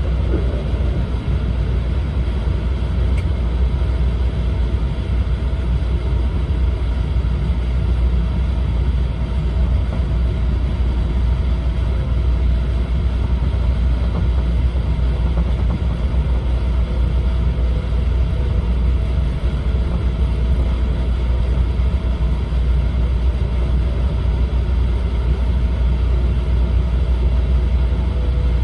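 Steady low rumble inside the passenger cabin of a JR East E4 series double-deck Shinkansen train as it runs along the line, with a faint steady hum above it.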